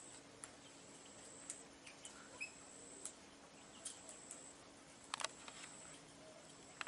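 Faint outdoor ambience: a thin, high steady whine that comes and goes, with scattered small clicks and taps and a faint bird chirp.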